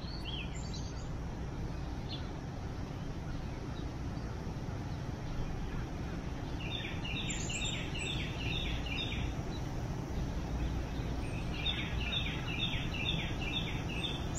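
A songbird repeats a rapid chirping phrase of about three notes a second, twice: once about seven seconds in and again about twelve seconds in, with a few single calls near the start. Under it runs a steady low background hum.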